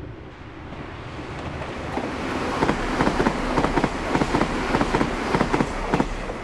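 Meitetsu Nagoya Main Line train passing close by: the rumble builds, then a rapid clatter of wheels over the rail joints runs from about two and a half seconds in until near the end, when it begins to fade.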